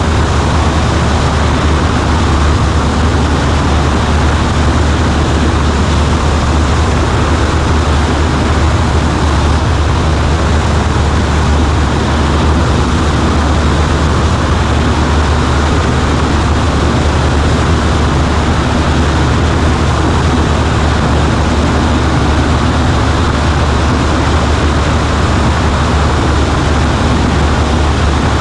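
Cabin noise of a Cessna 140A in flight: its four-cylinder Continental engine and propeller drone at a steady cruise setting, under a constant rush of air.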